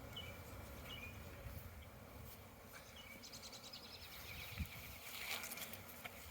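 Honeybees buzzing faintly around an open hive, with a short rapid bird trill about three seconds in and one soft knock a little past halfway, as of a wooden hive super being set down.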